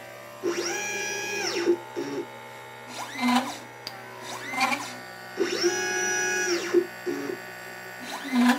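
LitePlacer pick-and-place machine's stepper motors whining as the placement head moves between parts and board. There are two longer moves, each rising in pitch, holding and falling away, with several short chirping moves between them.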